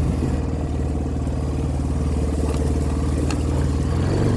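A motor vehicle's engine running at a steady speed, with a few light rattles about three seconds in.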